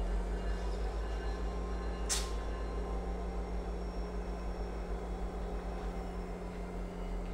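Passenger train cars rolling slowly past, a steady low rumble with a constant hum, and one brief sharp hiss about two seconds in.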